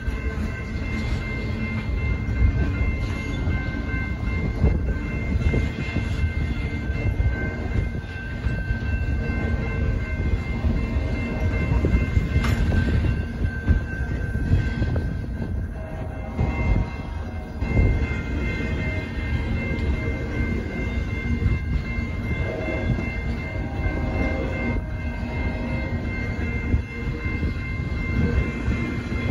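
Intermodal freight train's container well cars rolling past: a steady rumble of steel wheels on rail, with clicks over rail joints and steady high-pitched tones running over it.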